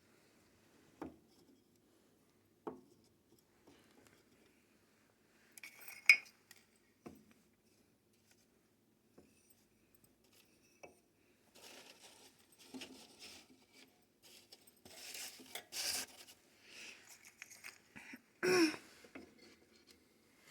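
Kindling and cardboard being handled and laid into a wood stove: scattered sharp knocks and clinks of wood on the stove's metal, the loudest about six seconds in, then a stretch of rustling and scraping with a louder clank near the end.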